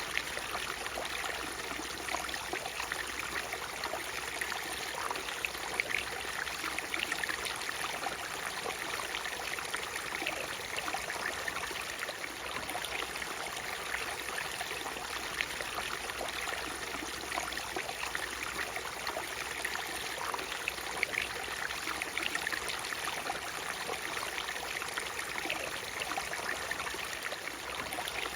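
Water of a natural waterfall rushing and splashing steadily, an even hiss with little bass and many small splashes.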